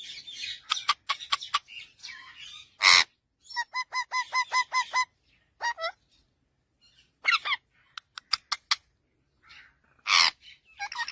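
Parrots squawking and chirping: two loud harsh squawks, about three seconds in and near the end, a quick run of about nine short repeated calls, and a few sharp clicks.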